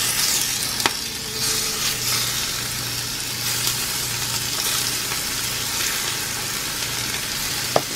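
Chunks of raw marinated chicken sizzling in hot oil on a cast-iron griddle as more pieces are laid in with tongs: a steady, even frying hiss. A single sharp click sounds about a second in.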